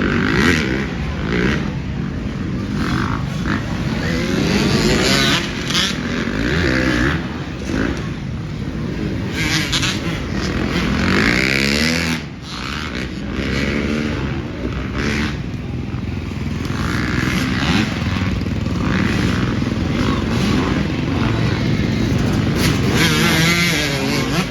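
Several motocross bikes racing around a dirt track, their engines revving up and falling off over and over as they accelerate, shift and pass.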